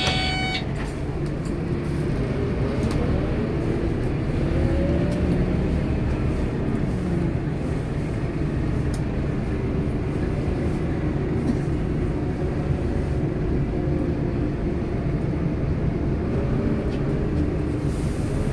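Scania K230UB bus's diesel engine and drivetrain running under way, heard from inside the cabin, its pitch rising and falling as the bus accelerates and eases off. A chime from the bus's bell or door buzzer dies away just as it starts.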